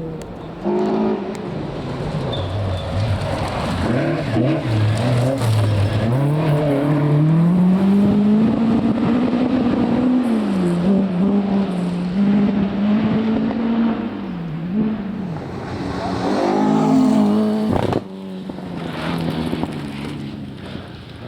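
Rally car engines on a stage: revving hard, the pitch rising and dropping again and again as the cars accelerate and change gear, with abrupt changes from one car to another near the start and about eighteen seconds in.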